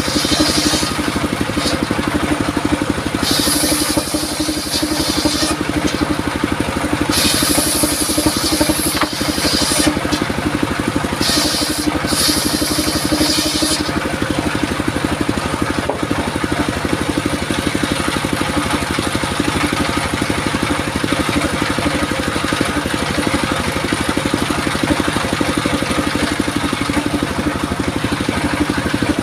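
Engine-driven circular saw running steadily, with the blade cutting into durian wood in four short hissing passes of one to two and a half seconds each during the first half. After that it runs on without cutting.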